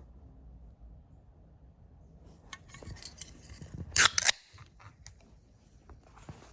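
A can of black cherry energy drink being opened: a few small clicks, then a sharp pop with a brief fizz about four seconds in.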